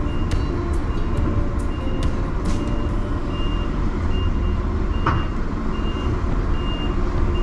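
A lorry's reversing alarm beeps steadily, a little more than once a second, over a heavy diesel engine running low. Sharp clicks come through in the first three seconds and once more about five seconds in.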